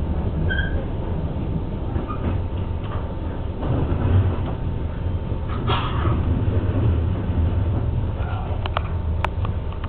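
Passenger train running along the track, heard from inside the carriage as a steady low rumble, with a short squeak early on and a few sharp clicks near the end.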